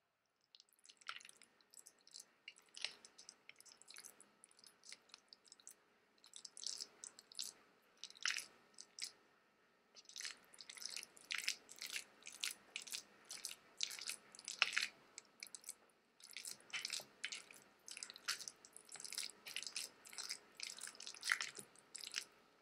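Close-miked wet, crackly food sounds: quick runs of short squelching, crackling strokes with brief pauses between them.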